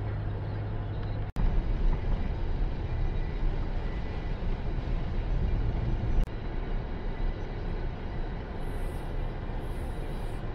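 Car being driven: steady engine and road rumble heard from inside the cabin. The sound cuts out for an instant about a second in.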